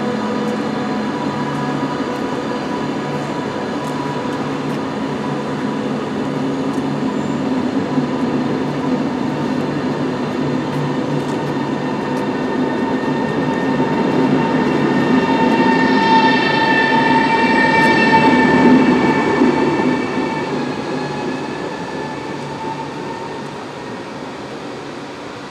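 Train moving past on the rails with a steady rumble and humming tones, growing louder to a peak about eighteen seconds in and then fading away. A high ringing note sounds near the loudest part.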